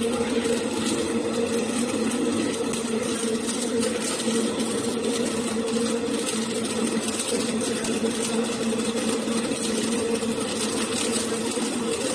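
Steady mechanical hum of a circumferential seam welding machine running, a constant buzzing drone over a hiss with no pauses or changes.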